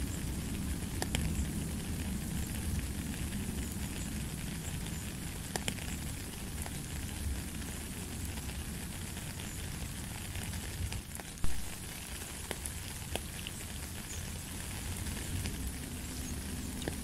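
Steady rain falling on a puddled gravel path, with scattered single drops ticking. There is one sharper, louder knock about eleven seconds in.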